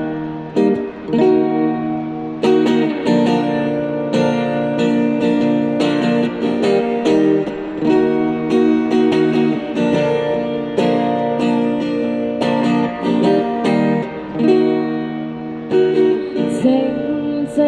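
Acoustic guitar strummed, playing chords as a song's instrumental introduction before the vocal comes in.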